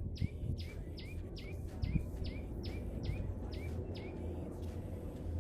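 A small songbird calling a fast series of short, sharply downward-sweeping notes, about two to three a second, stopping about four seconds in. A steady low rumble runs underneath, with a couple of low thumps.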